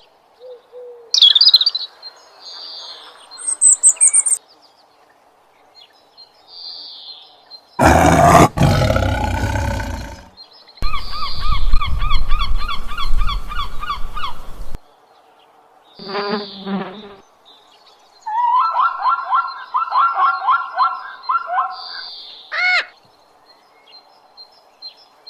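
A string of different animal and bird calls, one after another with short gaps: high chirps, a loud pitched call, and rapid pulsed trills.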